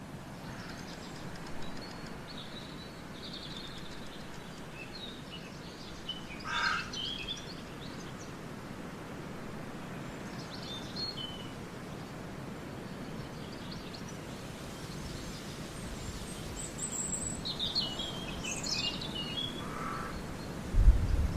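Birds chirping and calling on and off over a steady background hiss of outdoor ambience, with a busier run of chirps near the end. A sudden loud low rumble comes in right at the very end.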